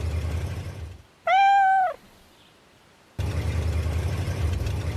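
A cartoon cat's single meow, held level then dropping at the end, between stretches of a low steady rumble.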